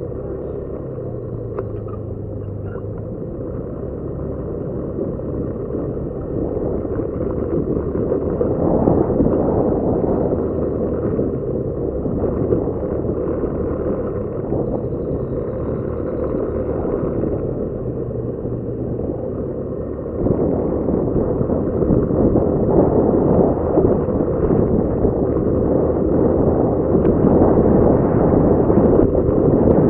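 Motorcycle on the move: its engine running under a heavy rumble of wind on the microphone. The rumble builds and jumps louder about two-thirds of the way through.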